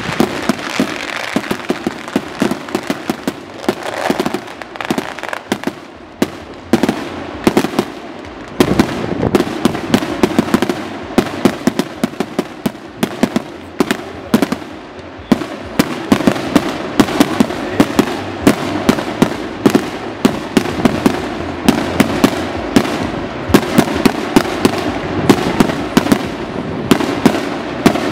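Daylight fireworks going off in a rapid, irregular stream of sharp bangs, several a second, with a couple of short lulls.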